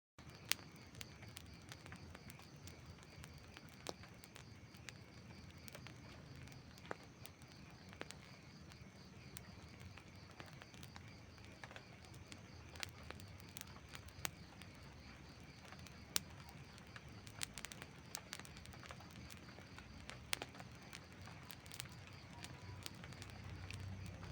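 Wood fire crackling: irregular sharp pops and snaps of burning logs over a low, steady background of the burning fire.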